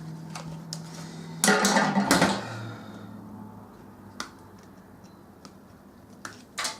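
Clatter and clicks of microwave parts being handled during a teardown, with a louder clattering stretch about a second and a half in and a few sharp clicks later.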